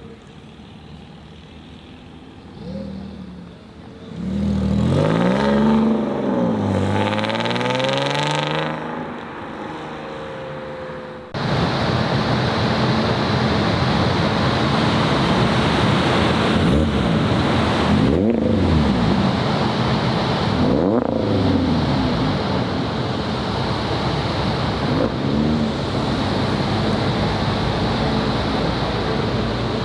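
Modified car engines revving as they pull away: several throttle blips rising and falling in pitch for about five seconds. A sudden change follows, to a loud steady rushing noise with more short revs over it.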